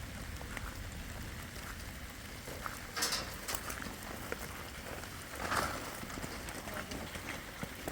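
Steady rain pattering with many small drop ticks, and two short louder rushes of noise about three and five and a half seconds in.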